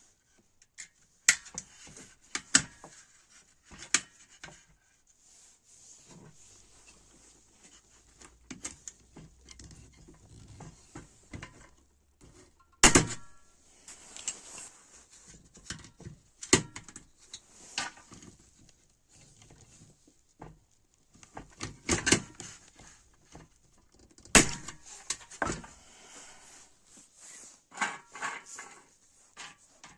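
Scattered clicks, taps and knocks of hard parts being handled and set down, with a few louder knocks about 13, 22 and 24 seconds in.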